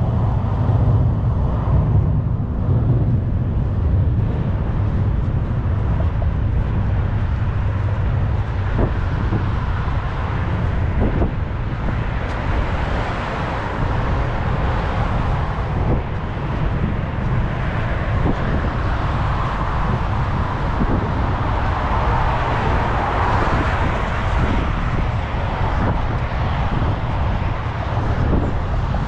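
City street traffic: a steady low rumble of vehicles, with passing traffic growing louder through the second half.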